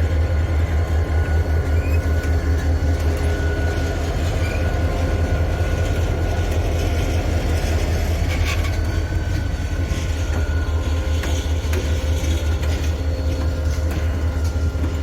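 Service train's diesel locomotive pulling out of a rail yard, its engine giving a loud, steady low drone, with a thin steady high tone above it.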